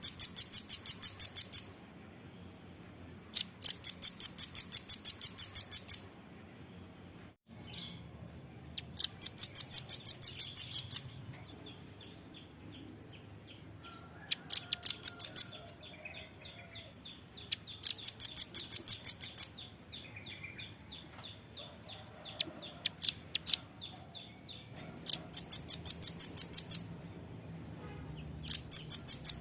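Velvet-fronted nuthatch (rambatan paruh merah) singing: seven bursts of rapid, sharp, very high notes at about eight notes a second, each burst lasting one to three seconds, with pauses of a few seconds between them. Fainter, lower calls from other birds sit underneath.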